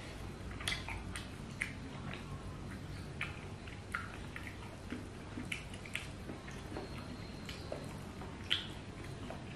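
Close-up eating sounds: wet chewing and lip-smacking as a mouthful of rice and curry is eaten by hand. They come as short, irregular smacks and clicks, one or two a second, the sharpest a little over eight seconds in, over a low steady hum.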